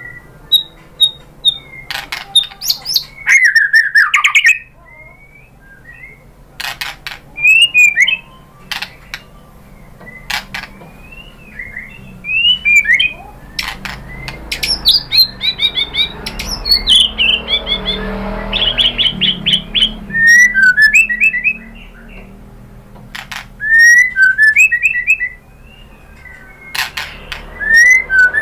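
White-rumped shama singing: varied phrases of sliding whistles and quick chirping runs, broken up by loud, sharp clicks.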